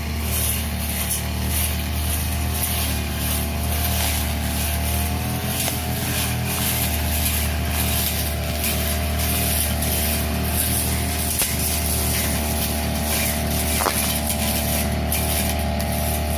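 Brush cutter's small engine running steadily at high speed, with a hissing that comes and goes as the blade goes through grass.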